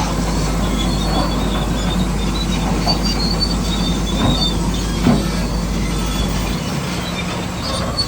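Radio-controlled model construction machine running: electric motors and gearboxes whining steadily, with short high squeaks and light clicks from the running gear.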